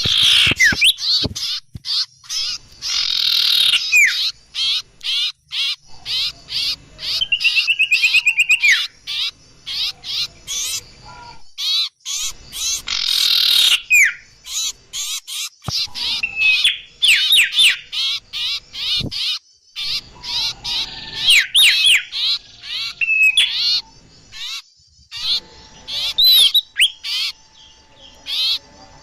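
Bird-lure (pikat) recording of small songbirds: a dense run of high chirps, sweeping whistles and trills with abrupt breaks between phrases, and a fast even rattling call about seven to nine seconds in.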